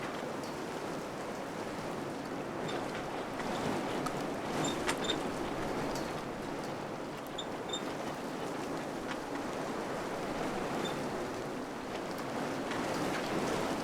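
Wind blowing steadily in gusts, swelling and easing, with a few faint high ticks scattered through it.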